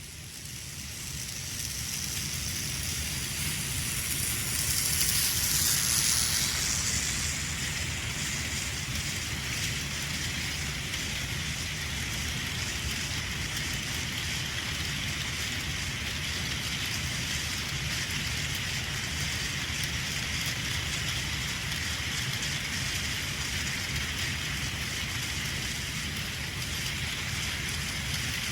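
Battery-powered Plarail Thomas the Tank Engine toy train running on plastic track with a long train of cars: a steady motor whir and running noise. It grows louder over the first couple of seconds, is loudest about five to six seconds in as it passes close, then carries on evenly.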